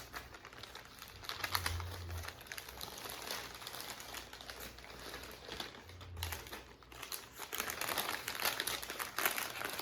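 Sandwich wrapping paper crinkling and rustling in irregular crackles as a sub is unwrapped and handled.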